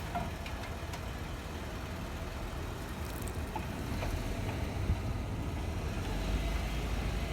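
Motor vehicle engine running at low speed with a steady low rumble, a little louder in the second half.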